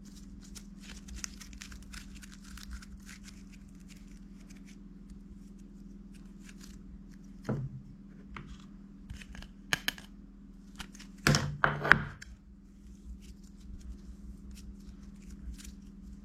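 Small handling sounds: light rustling and crinkling with scattered clicks, one knock about halfway through and a louder cluster of knocks a little later, over a steady low hum.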